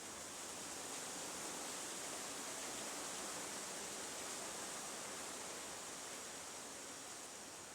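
Steady outdoor hiss, loudest in the high pitches, swelling a little through the middle and easing off toward the end.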